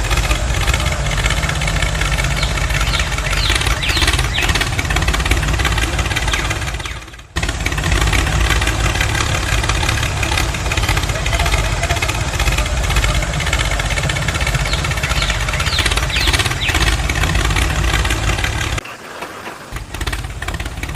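Engine running steadily. It cuts out for a moment about seven seconds in, then resumes, and drops much quieter near the end.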